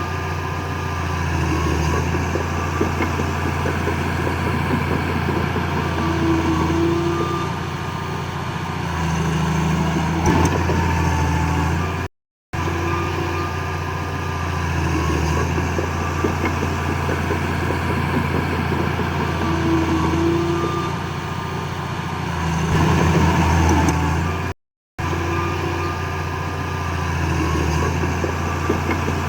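Heavy earthmoving machinery's diesel engine running steadily under load, rising briefly in revs now and then. The same stretch of sound repeats about every twelve seconds, cutting out for a moment between repeats.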